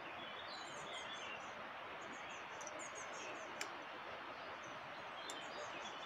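Small birds chirping in short, repeated high calls over a steady rushing background hiss, with one faint sharp click just past the middle.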